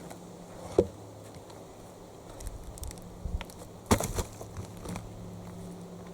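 Axe striking a log twice, about three seconds apart, the second blow followed by smaller knocks and clatter. A steady low hum runs underneath.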